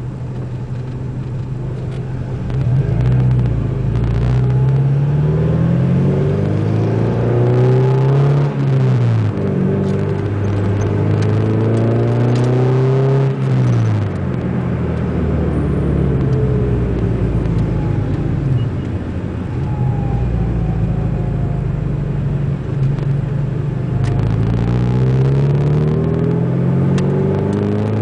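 Ford Zetec four-cylinder engine with a 4-into-1 exhaust header running loud while driving. It pulls up through the revs twice, each pull ending in a sudden drop in pitch, then runs steadier before climbing again near the end.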